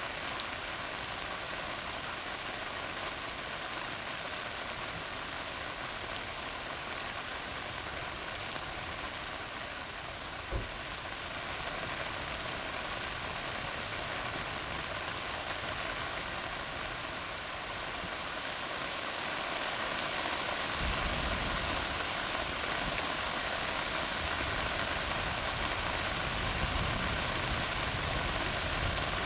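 Steady rain falling on a tar road, an even hiss with occasional single drop ticks. About two-thirds of the way through a low rumble of thunder sets in and continues.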